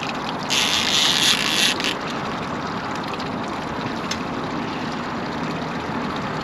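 Boat motor running steadily under way, with wind and water noise. A louder hiss rises about half a second in and fades within about a second and a half.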